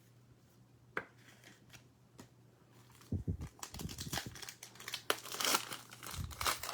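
Foil wrapper of a Panini Select football card pack crinkling and tearing open, starting about three seconds in after a single click.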